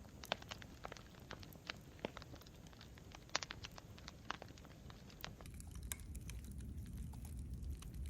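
Campfire crackling: irregular sharp pops and snaps of burning wood over a low rumble of flames. A little after five seconds in, the pops grow sparser and the low rumble louder.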